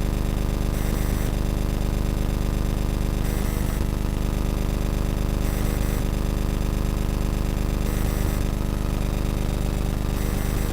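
A steady, unexplained buzzing hum picked up by the camera beside a crystal, low and constant with a hiss above it that swells about every two seconds.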